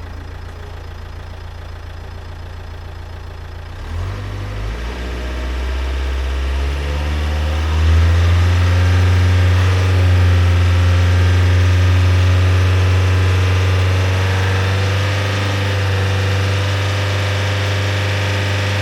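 Nissan Qashqai's 1.5 dCi K9K four-cylinder diesel engine running, its DPF freshly dosed with foam cleaner. It idles steadily at first, then about four seconds in the revs climb over a few seconds and are held at a raised, louder speed.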